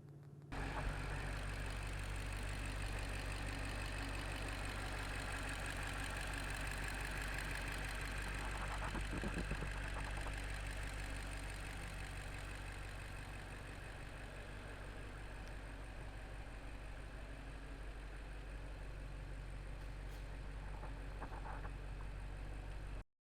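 Range Rover P530's twin-turbo V8 idling steadily, heard at its exhaust.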